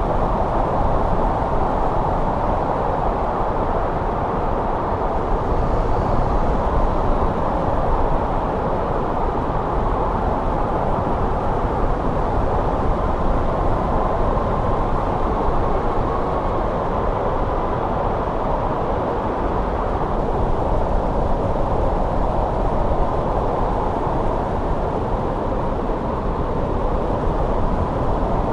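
Steady wind of a snowstorm: a deep, even rush of noise, with a faint whistle drifting in around the middle.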